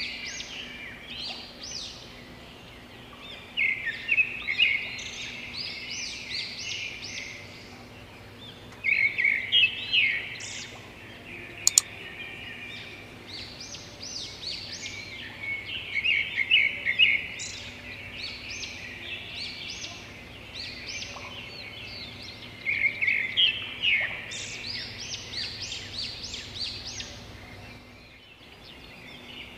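Birds chirping: bursts of quick, high chirps that recur every few seconds over a faint steady hum, with one sharp click about twelve seconds in.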